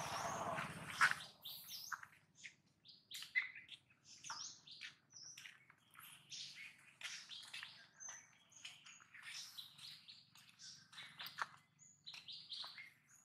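Birds chirping and tweeting, many short, high calls scattered throughout. In the first second there is a rustling hiss and one sharp click, the loudest moment.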